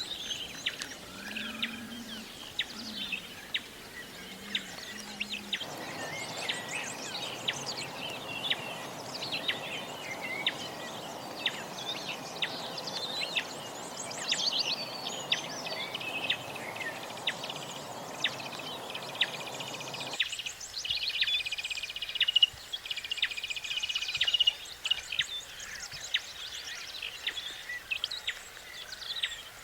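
Many small birds chirping and trilling in quick overlapping calls. A steady hiss-like background noise comes in suddenly about six seconds in and cuts off about twenty seconds in.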